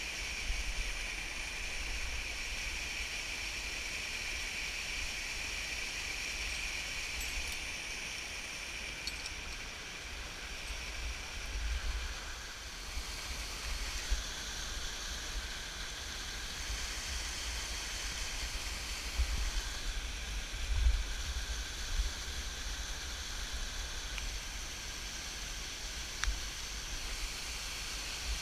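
Waterfall, a steady rush of falling water. Under it, a low buffeting on the microphone comes and goes, heaviest about twelve and twenty seconds in.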